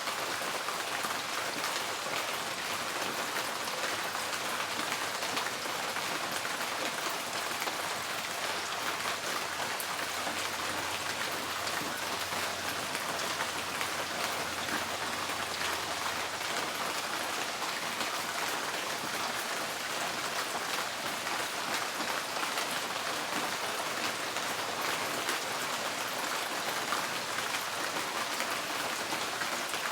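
Steady rain drumming on a tin porch roof: a dense, even patter of drops that holds constant throughout.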